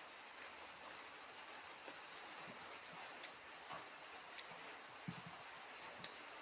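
Faint eating sounds: a few short, sharp clicks and soft low knocks over a steady background hiss.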